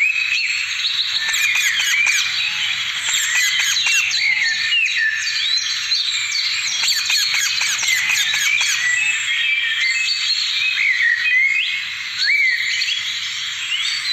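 Parrots calling over one another: a dense, unbroken run of overlapping squawks and chirps, many sliding up and down in pitch.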